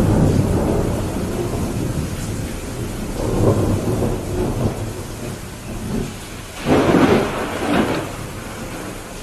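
Thunderstorm: steady heavy rain with rolling thunder, a low rumble at the start and again a few seconds in, then a sharper, louder thunderclap about two-thirds of the way through that fades into the rain.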